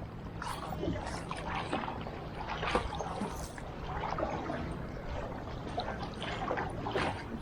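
Kayak paddle blades dipping into the water in repeated strokes, with splashing and dripping about every second, over a low steady rumble.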